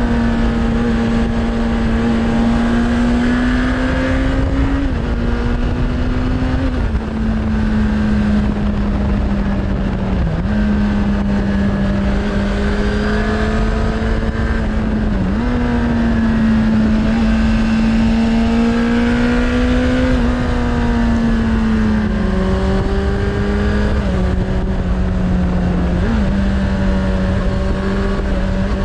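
Suzuki Bandit 600's inline-four engine running through an aftermarket Hashiru exhaust while riding. It holds a steady note that creeps up and then drops sharply at a handful of gear changes, with a heavy low rumble of wind and road noise underneath.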